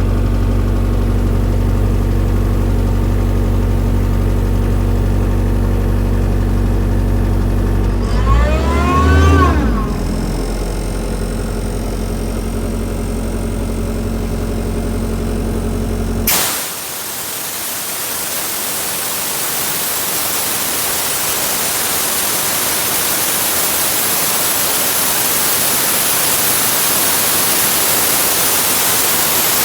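DAS 180LB engine-driven air compressor running, its engine speed rising and falling about eight seconds in before it settles to a lower, quieter run. The engine stops abruptly about sixteen seconds in, and a loud steady hiss follows.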